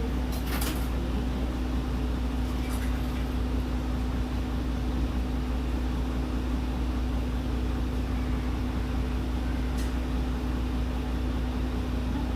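Steady running noise heard inside a Nihon Kotsu route bus: a constant low engine drone with a steady hum. A couple of faint clicks come through, one right at the start and one about ten seconds in.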